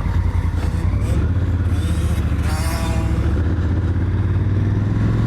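Honda Africa Twin's parallel-twin engine running steadily, with a brief higher rising sound about halfway through.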